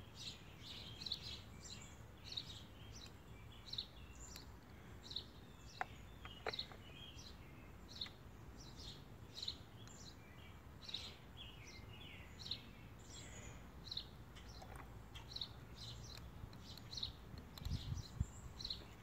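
Small birds chirping: short high chirps repeat about one to two times a second, mixed with some lower twittering notes. Two faint clicks come about six seconds in.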